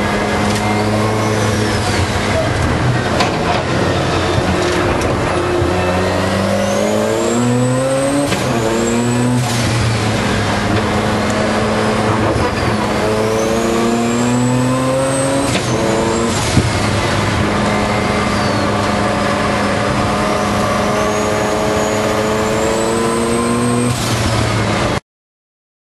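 Mazda RX-7 race car's engine at full throttle, heard from inside the cabin. The revs climb and drop sharply at each upshift, with a high whine rising alongside, and the sound cuts off suddenly near the end.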